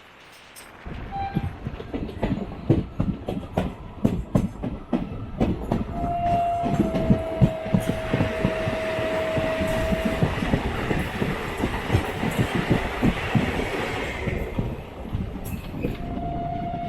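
Coimbatore–Kannur MEMU passing on the adjacent track: it starts suddenly with loud, rapid wheel clatter over rail joints and a rushing noise. A long train horn blast runs from about six to ten seconds in, dipping slightly in pitch at its start, and another horn begins near the end.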